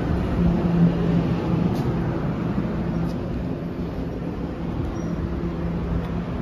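NJ Transit Multilevel commuter railcars at the platform giving off a steady low mechanical hum, its tone growing stronger and weaker.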